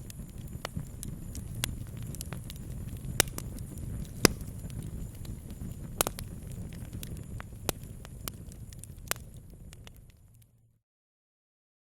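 Wood campfire burning with a steady low rumble and scattered sharp crackling pops, one louder pop about four seconds in. About ten and a half seconds in, the sound cuts out to dead silence.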